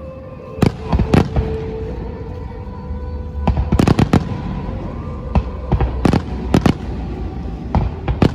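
Fireworks shells bursting in an irregular series of sharp bangs, about a dozen in all, with a quick cluster of several about three and a half seconds in, over a low rumble.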